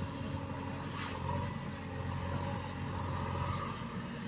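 Heavy diesel machinery engine running steadily at an even pitch, with a couple of faint clicks over it.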